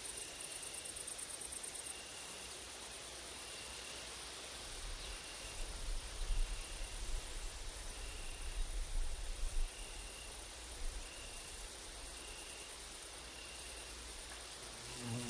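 Summer woodland insect chorus: a grasshopper's rapid, high buzzing trill that stops about two seconds in, over a short high chirp repeating roughly every second. Gusts of wind rumble on the microphones in the middle, and near the end a flying insect buzzes close by.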